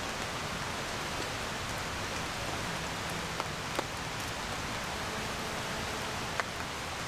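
Steady rain falling, with a few sharp ticks of single drops or taps, two of them in the middle and one near the end.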